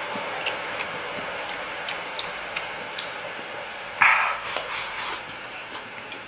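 Utensils clicking and tapping against dishes, with a louder, rougher rustle about four seconds in, over a steady background hiss.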